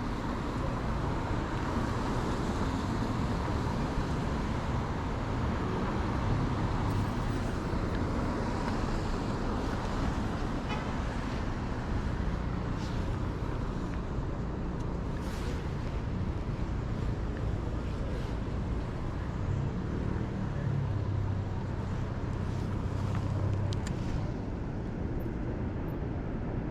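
Steady city street traffic noise, with the low rumble of passing vehicles swelling about five seconds in and again past twenty seconds, and a few faint sharp clicks.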